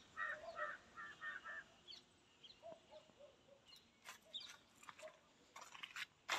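Faint bird calls: a quick run of about six short calls in the first second and a half, then a few scattered softer ones, followed from about four seconds in by a string of short clicks and scuffs.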